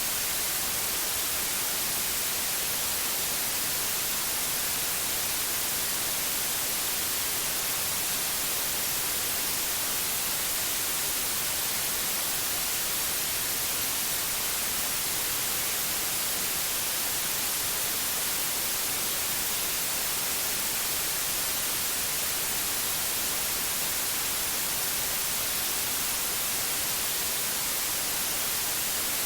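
Steady synthetic white noise: an even, unbroken hiss, brighter in the highs, with no change.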